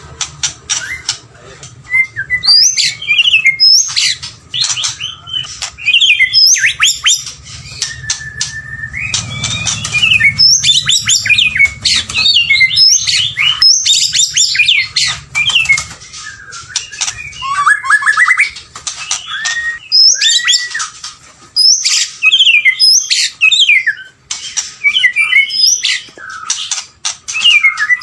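White-rumped shama singing a long, varied song: loud whistles sweeping up and down, mixed with fast rattling trills, in phrases separated by short pauses.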